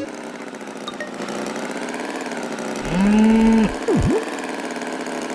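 A steady engine hum, with a cow mooing once about three seconds in, followed by a short falling-then-rising swoop.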